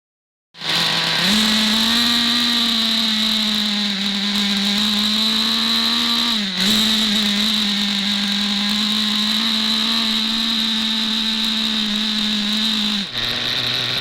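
Two-stroke nitro engine of a Traxxas Revo 3.3 RC truck running at high revs, a steady high-pitched buzz. It starts abruptly after a moment of silence, dips briefly about halfway through, and drops lower near the end.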